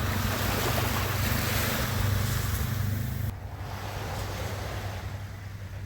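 Ocean surf washing on the shore, with wind rumbling on the microphone; the sound drops abruptly in level a little over three seconds in and carries on more quietly.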